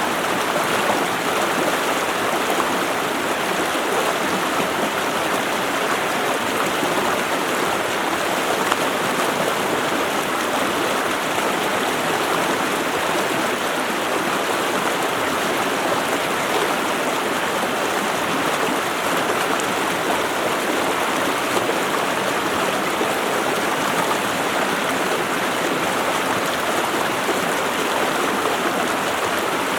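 A mountain creek's water rushing steadily over rocks.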